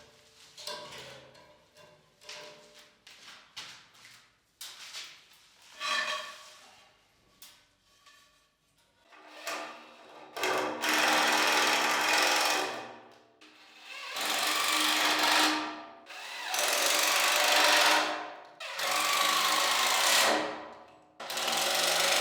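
Handling knocks and clicks, then a power drill run in repeated bursts of one to two seconds with short pauses between them.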